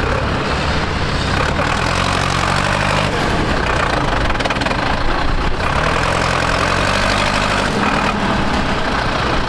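Tractor engine running at a steady pitch, its note standing out for about two seconds twice, over a constant noisy background.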